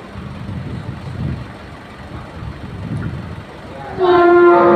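Heavy vehicles' engines rumbling low while manoeuvring to park, then about four seconds in a sudden loud, steady horn blast.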